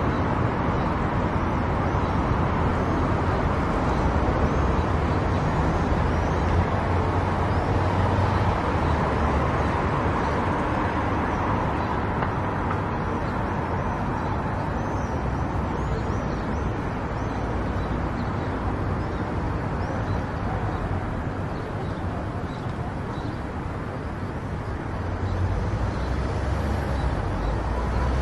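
A car driving at highway speed: steady tyre and road noise over a low engine and drivetrain rumble, easing a little past the middle and building again near the end.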